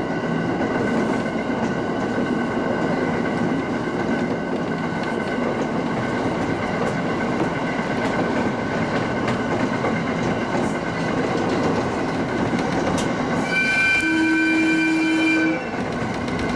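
A Tsugaru Line local train running along the track: steady rolling noise with a steady whine. Near the end its horn sounds once, held for about two seconds.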